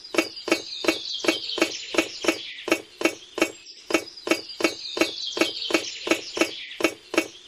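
Steady rhythmic mechanical knocking, about three knocks a second, over a continuous high-pitched whine.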